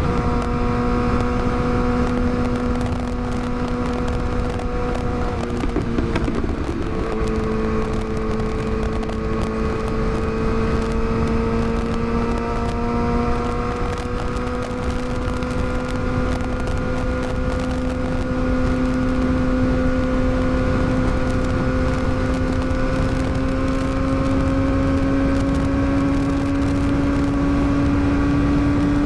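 Yamaha R6's inline-four engine running at steady cruising revs under way. The pitch dips at the start, breaks briefly about six seconds in as with a gear change, then climbs slowly as the bike gathers speed. Wind rush sits underneath.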